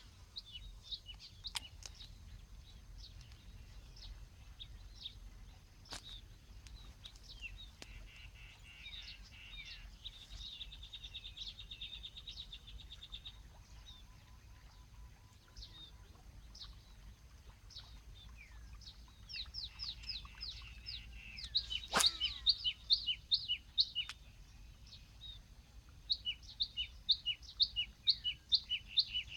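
Small birds calling: runs of short, quick chirps and fast trills, coming in bursts and busiest in the second half, with a couple of sharp clicks among them.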